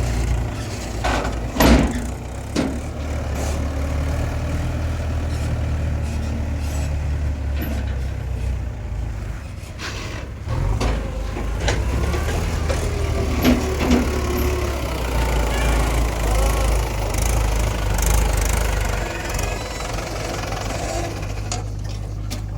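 Diesel engine of a JCB 3DX backhoe loader working near a Mahindra tractor, running steadily with a low throb. Several sharp clanks sound over it; the loudest comes about two seconds in.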